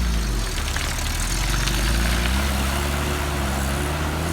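Lada Niva engine revving hard under load while the car forces its way along a muddy rut at full throttle; the engine note sags and then climbs again.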